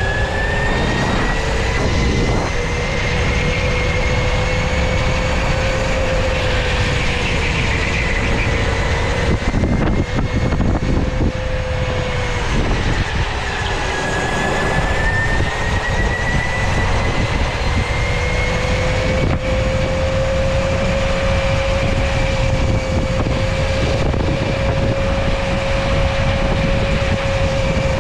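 Electric go-kart's motor whining while driving, its pitch rising and falling with speed: it dips about halfway through, then climbs again. A steady noisy rush runs under it.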